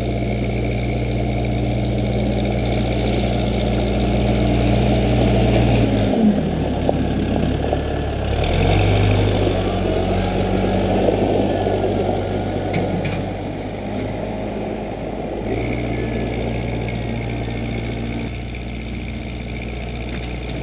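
Case 580B backhoe's engine running steadily. Its pitch drops about six seconds in and shifts again a couple of seconds later, with a rough, noisy rumble through the middle stretch, before it settles back to its first steady note near the end.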